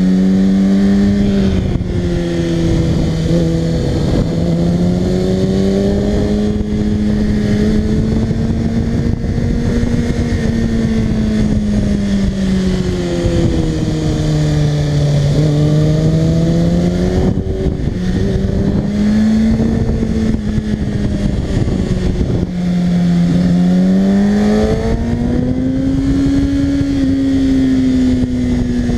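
Kawasaki ZX-6R 636's inline-four engine heard from the rider's seat, its note rising and falling with the throttle through a run of corners, with a few short breaks where the pitch jumps as it changes gear. Wind rushes over the microphone throughout.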